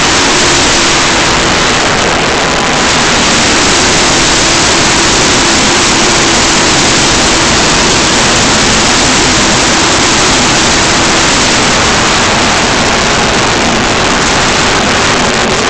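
A field of NASCAR Nationwide Series stock car V8 engines running at racing speed as the pack streams past, a continuous loud rush of engine noise that holds steady.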